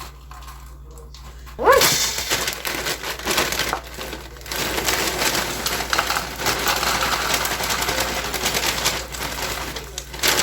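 Dry Rice Chex cereal pouring and rustling into a large bowl, a steady crackly clatter that starts about two seconds in and pauses briefly twice.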